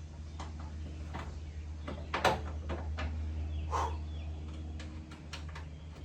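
Scattered clicks and knocks of hand work in a shop, the loudest a little past two seconds in, over a steady low hum.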